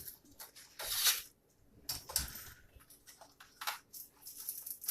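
Aluminium foil being handled and crinkled, in several short rustling bursts.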